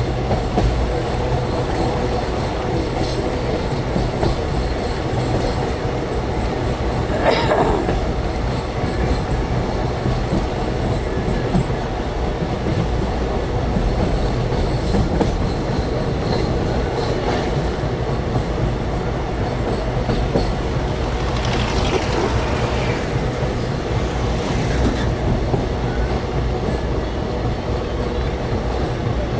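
Moving train heard from its window: a steady rumble of wheels on the rails with clickety-clack, and a brief louder burst about seven seconds in.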